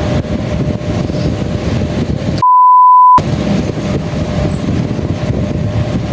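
A censor bleep: a pure, steady beep lasting under a second, about two and a half seconds in, with all other sound muted while it plays. Around it runs a loud, even, noisy rumble with a faint steady hum.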